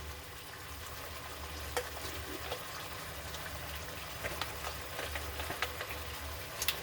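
Chicken thighs, onion and garlic sizzling in hot canola oil in a pan, a steady frying hiss with scattered small crackles and pops.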